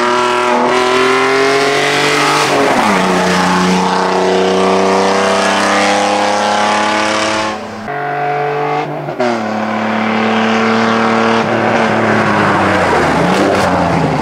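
Ford Sierra XR4x4 rally car engine at full throttle, the revs climbing through the gears with a quick upshift about three seconds in. The sound breaks off twice around eight and nine seconds in, then the engine pulls hard again, with the revs falling near the end as the car slows.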